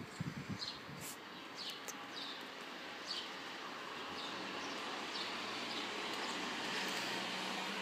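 Small birds chirping: short, high, falling chirps repeating about once or twice a second, over a steady hiss that grows a little louder through the middle.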